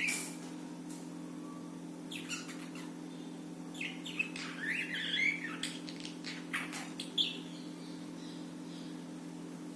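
Pet budgerigars chirping and warbling in short bursts, with a lull in the last couple of seconds, over a steady low hum.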